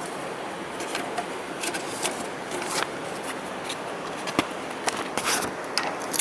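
Mail being handled: paper envelopes rustling and scraping with light clicks, over steady background noise.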